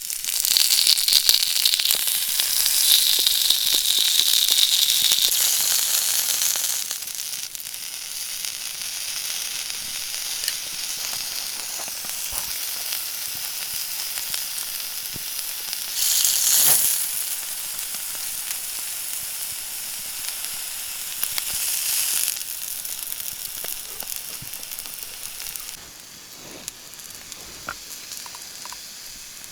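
Food sizzling as it fries in a pan over a campfire: loud for the first several seconds, swelling twice more in the middle, then settling lower near the end.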